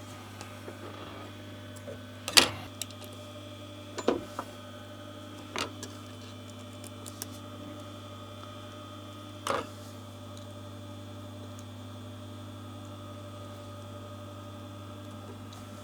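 A few sharp metallic clicks and knocks, spread several seconds apart over a steady low hum, as a sewing machine's presser foot is swapped for a zipper foot.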